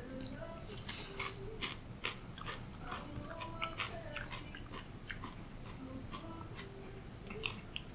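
A man chewing a mouthful of grilled beef bowl, with many short wet mouth clicks and smacks throughout.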